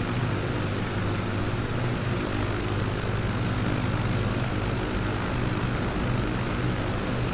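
Small propeller airplane's piston engine running steadily under a constant rush of air noise.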